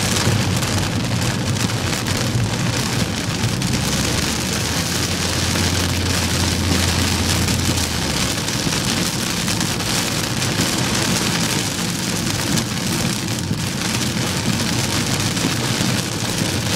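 Heavy thunderstorm rain pelting a moving car, a dense, steady patter of drops hitting the body and windscreen. A low steady drone runs underneath and stops about eight seconds in.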